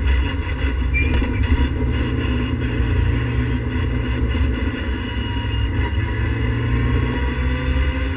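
Race car engine heard inside the cockpit, slowing down and then running steadily at low speed in second gear at around 3,500–4,000 rpm, with a steady low drone and a few light knocks.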